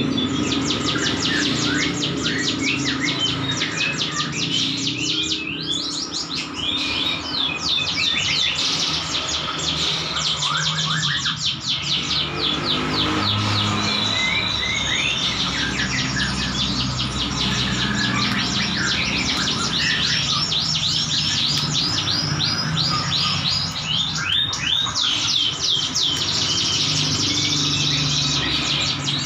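Ciblek gunung (hill prinia) singing a dense, very fast trill of high chirps, the tight 'bren' song used as tutor song for training other songbirds.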